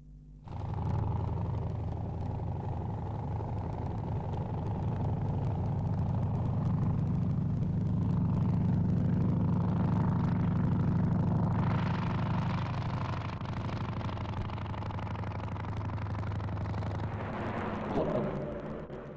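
Piston aero engine of a vintage aeroplane running steadily, growing louder toward the middle and easing off again, as the aircraft passes.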